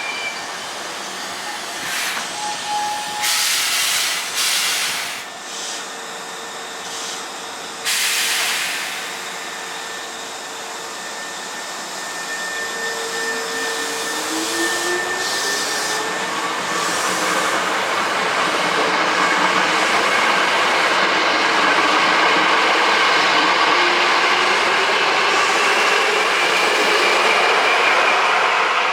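Hankyu Kyoto Line resistance-control electric train: a few sharp air hisses in the first nine seconds, then the traction motor whine rising in pitch as the train speeds up, with running noise growing louder toward the end.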